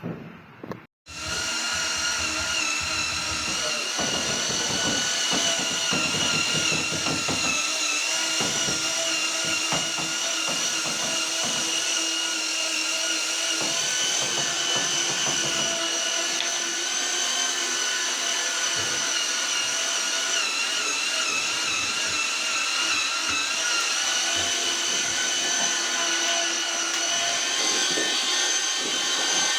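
Electric power tool motor running steadily at constant speed with a high whine that holds one pitch throughout.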